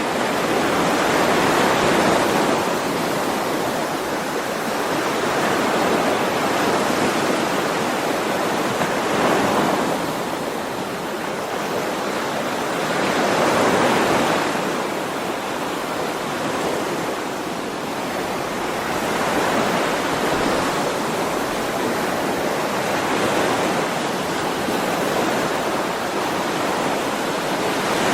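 Sea waves washing onto a shore, a continuous surf noise that swells and ebbs every few seconds.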